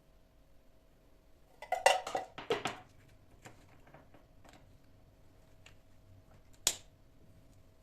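Hard household objects being handled during housework: a quick run of clatters and clinks about two seconds in, then a single sharp click near the end, over a faint steady hum.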